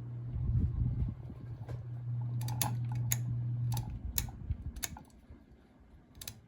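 View Fan Spinner V36R ceiling fan motor running with a steady low hum, while its rough pull-chain switch is pulled several times, giving a string of sharp clicks. The hum cuts out about four seconds in and comes back right at the end as the switch is stepped round to another speed.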